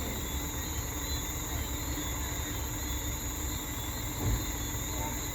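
Low, steady rumble of a heavy truck's engine running, with night insects chirring steadily and a short thump about four seconds in.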